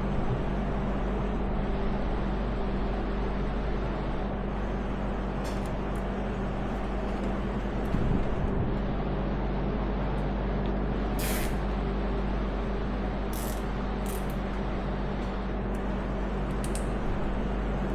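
Steady machine hum and hiss, with a few short, sharp hissing rasps; the loudest rasp comes about eleven seconds in.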